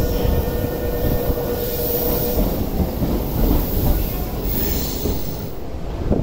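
Tokyu Toyoko Line electric commuter train pulling out of the station and moving away: a steady rumble of wheels on rail with a thin whine for the first couple of seconds, getting quieter near the end.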